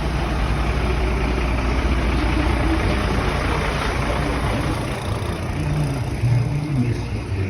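Truck engines running with a steady low rumble and road noise; the low rumble fades about five seconds in as the engine sound shifts.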